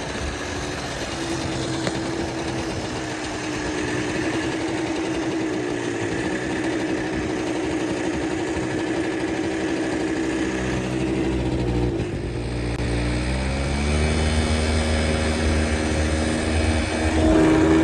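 Quad (ATV) engine running steadily; about twelve seconds in its speed drops, then rises again and gets louder near the end.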